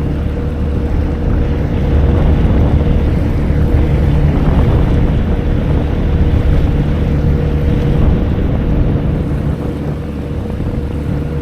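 Jet ski engine running steadily at low no-wake speed, held on cruise control, with water wash and some wind on the microphone.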